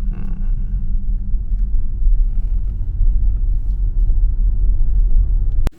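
Steady low road rumble inside an electric car's cabin while driving, cutting off abruptly with a click near the end.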